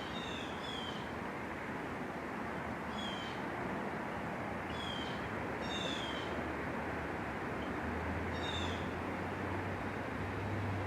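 A bird giving short, falling call notes, singly or in quick pairs, every one to three seconds over a steady hiss of outdoor background noise. A low hum comes in near the end.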